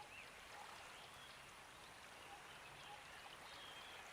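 Faint nature-sound background: a soft, even hiss of running water with small birds chirping lightly, a few short chirps a second.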